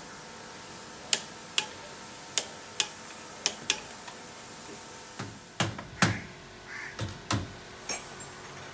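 Sharp clicks and knocks from tools and fittings during the fitting of a split air conditioner, irregularly spaced: about six light clicks in the first four seconds, then heavier knocks from about five seconds in.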